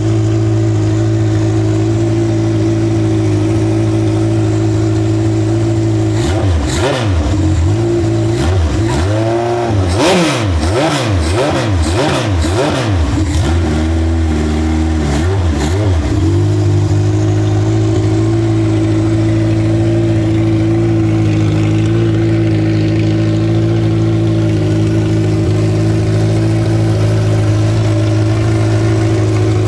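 Hydroplane racing engine on its first run, idling steadily, then revved in a series of quick throttle blips from about six to sixteen seconds in before settling back to a steady idle.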